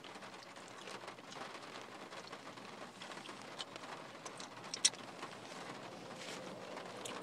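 Faint chewing and picking at fried chicken: soft crackly mouth and food-handling noises with scattered small clicks, and one sharper click about two-thirds of the way through.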